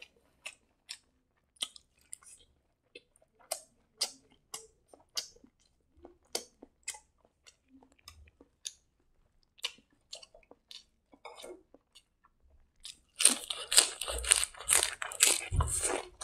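Close-up mouth sounds of a person eating by hand: scattered wet clicks and lip smacks while chewing rice, then from about thirteen seconds in, loud crisp crunching of fresh raw mustard-green (hangam) leaves.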